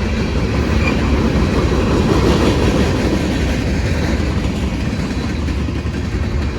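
Freight train cars rolling past close by: a steady, loud rumble of steel wheels on rail that swells slightly a couple of seconds in.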